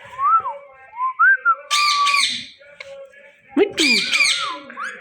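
Indian ringneck parakeet calling: a few short whistled notes that rise and fall, then loud harsh squawks around two seconds in and again near the end. The word 'Mittu' is spoken just before the second squawk.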